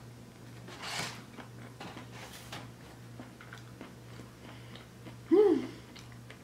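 Close-miked chewing of a donut, with small wet mouth clicks and a breath about a second in. About five seconds in comes a short voiced 'mm', rising then falling in pitch, which is the loudest sound. A faint steady low hum runs underneath.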